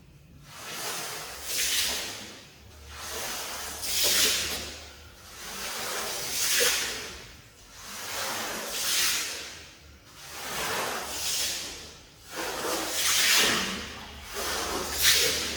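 Long hissing cleaning strokes across a wet, muddy shag rug, repeating about every two and a half seconds, each one swelling and fading.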